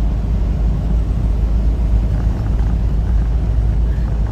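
Semi-truck's engine and road noise heard from inside the cab while driving: a steady low rumble.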